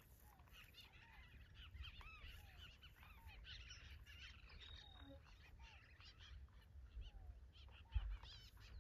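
Birds calling faintly in the background, many short rising-and-falling chirps scattered throughout, over a low wind rumble, with a soft thump near the end.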